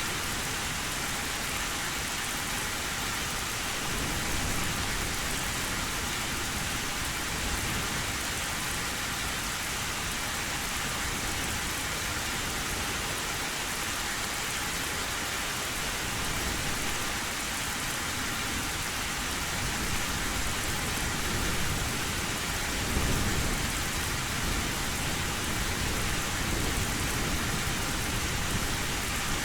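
Heavy rain drumming steadily on a tin roof, a dense even hiss, with low rolls of thunder now and then and one building up near the end.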